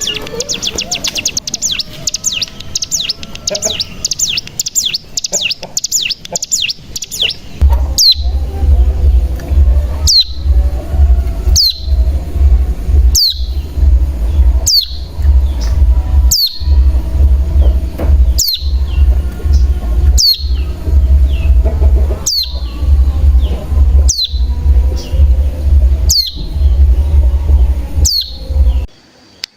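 Ciblek gunung (cigun) song: a fast, high chattering trill (the "bren") for the first seven seconds or so. Then single high notes, each sliding down, repeat about every second and a half. Under the repeated notes lies a loud, pulsing low hum, which stops shortly before the end.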